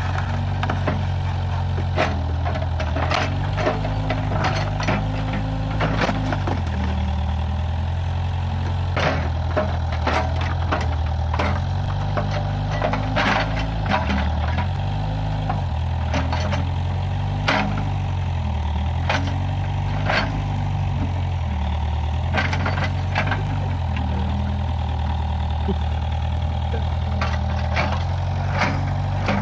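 Case 580G backhoe loader's diesel engine running, its pitch sagging and recovering again and again as the hydraulics take load. Scattered sharp cracks and knocks sound over the engine.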